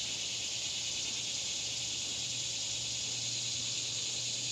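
Steady chorus of loud summer insects, a dense high-pitched shrill that holds unbroken.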